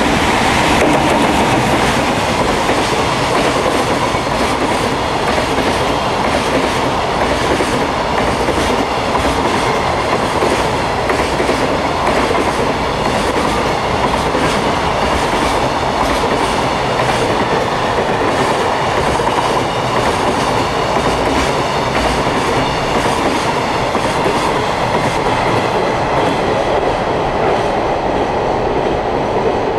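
Electric-hauled container freight train passing through at speed: a steady rumble of steel wheels on rail with a fast, even clickety-clack of wheels over the rail joints.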